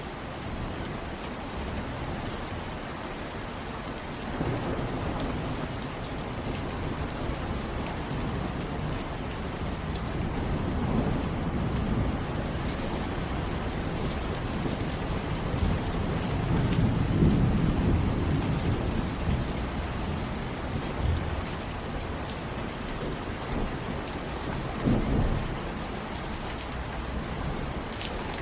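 Steady heavy rain pattering, with several low rolling rumbles of thunder rising and fading. The loudest rumble comes a little past the middle.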